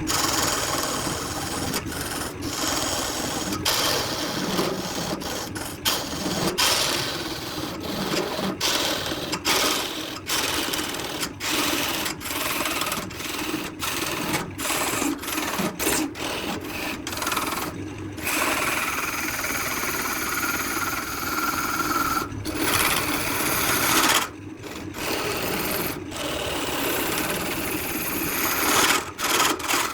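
Woodturning lathe work on a wood-and-epoxy blank: steady scraping and rubbing of a tool or abrasive on the spinning piece, broken by many abrupt cuts into short stretches.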